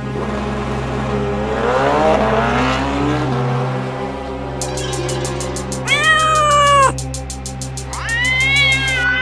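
Two long cat meows, one about six seconds in and one near the end, over background music with a low drone and a fast ticking beat.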